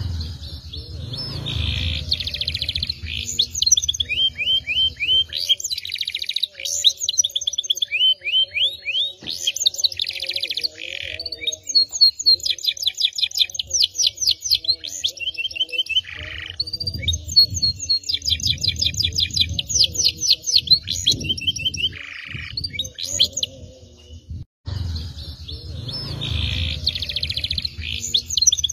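Domestic canary singing a long, varied song of fast rolling trills and rapid chirp series. It breaks off briefly near the end, then the same song starts again.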